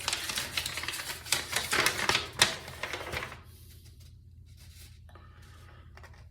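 Paper and cardboard packaging rustling and crinkling as it is handled: a dense run of crackles for about three seconds, one sharp crackle the loudest, then a few faint rustles.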